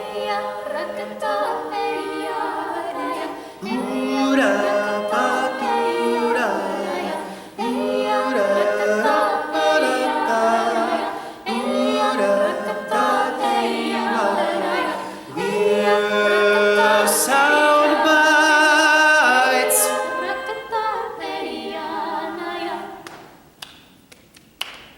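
An a cappella vocal group singing in several parts with no instruments, in phrases that stop and restart, fading out near the end.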